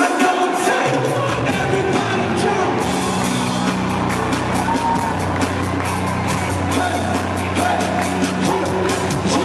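Live worship band playing, with drums, a bass line that comes in about a second in, and singing, over a cheering, singing crowd in a large hall.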